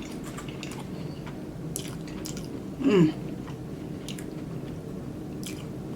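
A person chewing a mouthful of donut-bun fried chicken sandwich close to the microphone: soft wet mouth clicks and crunches, with a brief voiced "mm" about three seconds in.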